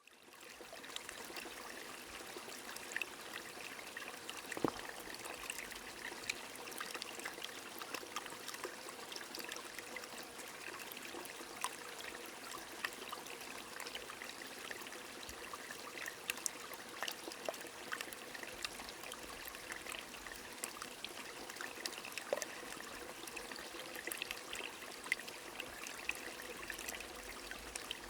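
Rain falling beside a running stream: a steady watery rush with many scattered sharp drip ticks, one louder tick about four and a half seconds in.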